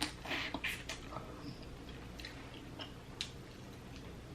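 A person chewing food close to the microphone, with wet clicks and short crackles that are busiest in the first second and then thin out to a few scattered ticks.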